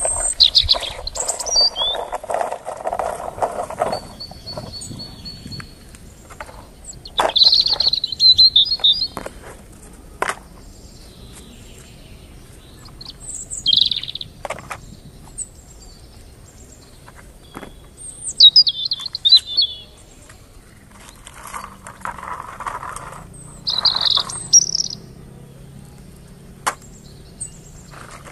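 A bird singing in short, high chirping phrases, about one every five seconds, with scattered clicks and rustling in between.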